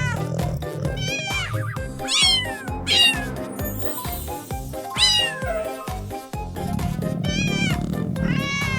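Several cat meows, each sliding down in pitch, over steady background music.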